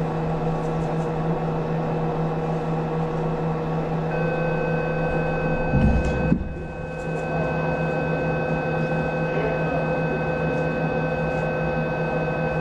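Steady electrical hum and hiss of an open communications audio line, with a few steady tones that join about four seconds in and a brief low thump about six seconds in.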